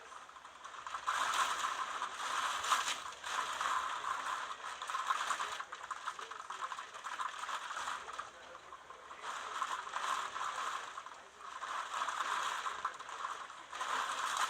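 Typhoon gusts: a hissing, rattling noise of wind-driven rain and buffeted objects that swells and fades in waves every two to three seconds.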